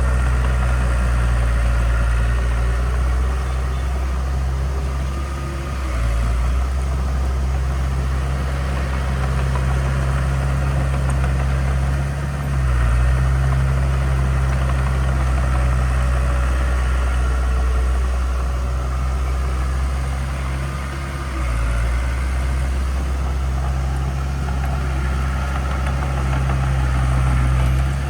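Heavy construction machine's diesel engine running steadily with a deep low hum, its note shifting briefly about six, twelve and twenty-one seconds in.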